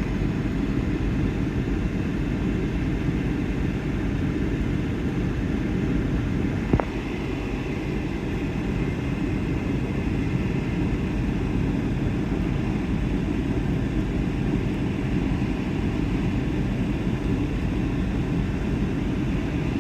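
Firefighting propeller airplane flying over, a steady low drone, with a single sharp click about seven seconds in.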